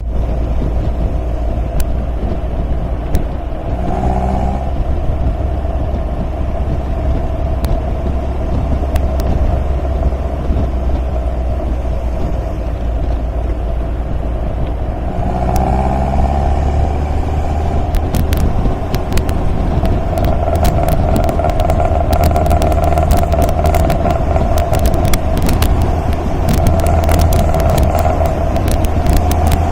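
MG MGA sports car running on the road, its engine a steady low drone. The engine note briefly shifts about four seconds in and again around sixteen seconds, and frequent sharp clicks and taps join it in the second half.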